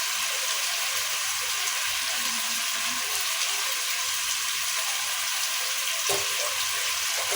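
Food sizzling steadily as it fries in a cooking pot, with a single short knock about six seconds in.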